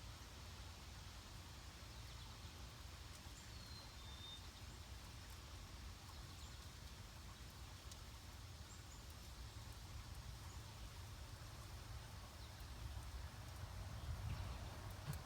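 Faint outdoor ambience: a steady low wind rumble with a few short, faint bird chirps and occasional faint ticks.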